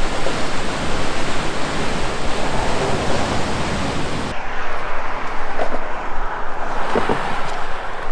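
Rushing river water or a waterfall running loud and steady. About four seconds in the sound changes abruptly to a duller rush with less hiss.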